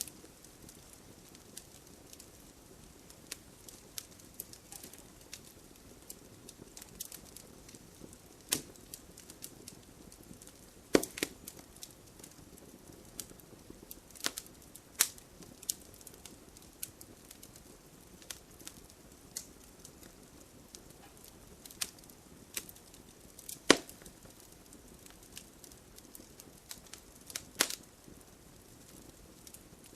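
Wood fire crackling in a fireplace: a low steady hiss of burning with irregular sharp pops and snaps, a few of them much louder, the loudest about eleven and twenty-four seconds in.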